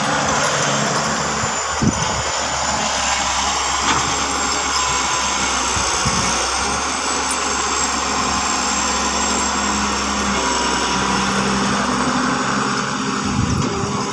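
Hyundai 130 excavator's diesel engine running steadily, with a few short knocks about two, four and six seconds in.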